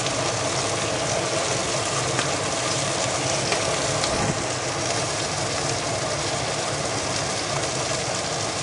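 Steady sizzling of food frying in a pan on a stovetop, with a few faint crackles.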